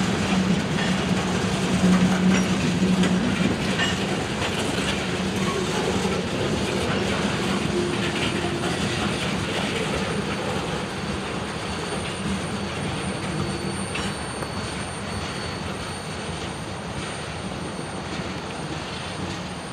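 Freight cars of a long CSX train rolling past on the rails, steel wheels clacking with a thin high squeal; the sound slowly fades toward the end.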